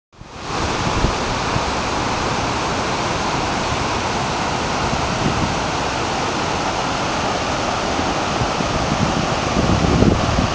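Steady rushing of swollen floodwater, a constant full-range roar, with a few low bumps on the microphone near the end.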